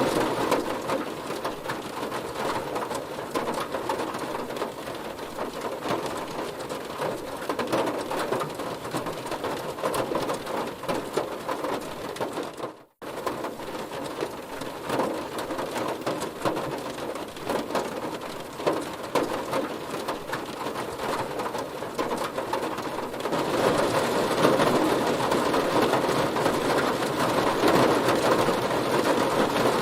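Heavy rain falling on a car, a dense patter of drops hitting the body. It cuts out for a moment about 13 seconds in and grows louder in the last quarter.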